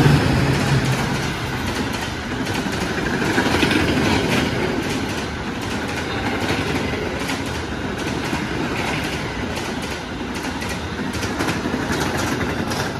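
A passenger train's coaches rushing past at speed: a steady rumble and rush of wheels on rail, with repeated sharp clacks as the wheels cross rail joints. The passing diesel locomotive's drone dies away in the first second.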